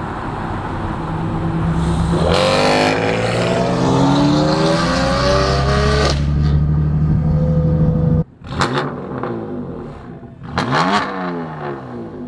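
Sports-car engine accelerating, heard from inside the cabin, its pitch climbing steadily. It cuts off suddenly about eight seconds in, followed by several quick throttle blips that sweep up in pitch and fall straight back.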